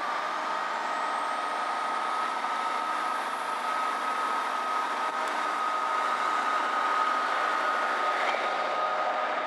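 A train running through the station, with a steady mechanical whine over rumbling noise that slowly grows louder and a high whine that rises in pitch in the first few seconds.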